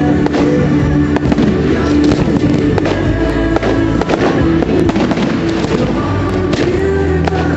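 Fireworks banging and crackling repeatedly over loud music played with a firework display.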